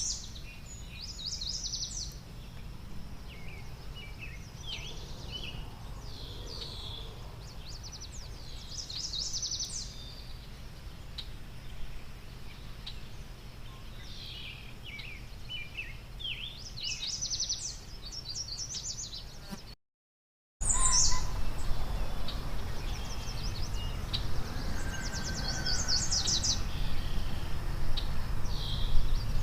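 Small birds chirping and trilling in short repeated phrases over a low steady outdoor rumble. The sound cuts out for under a second about two-thirds of the way through and comes back with the rumble louder.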